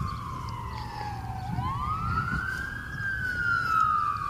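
Emergency vehicle siren on a slow wail: the tone falls for the first second and a half, climbs quickly for about a second and a half, then begins falling again. A low rumble runs underneath.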